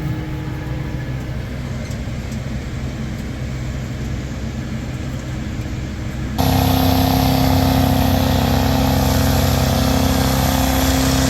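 Farm machinery engine running steadily. About six seconds in, a louder machine sound with a steady whine and more hiss starts abruptly.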